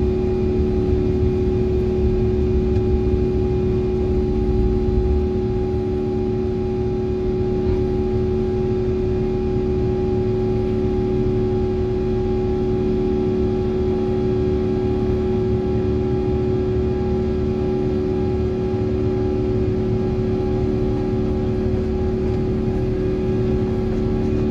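Airbus A350-900 cabin noise in flight: the steady rumble of the engines and rushing air, with several constant hums over it.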